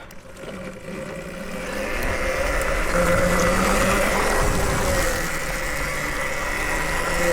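Nexvey Flash electric dirt bike riding along, its motor giving a steady whine over wind and tyre rumble; it swells over the first two seconds, then holds steady.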